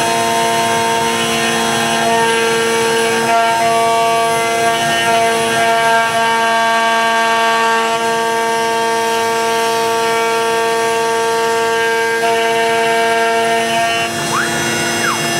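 CNC router carving a hardwood neck blank: the spindle runs steadily while the axis stepper motors whine in held tones that switch pitch in steps as the cutter changes direction. Near the end a whine glides up and back down as an axis speeds up and slows.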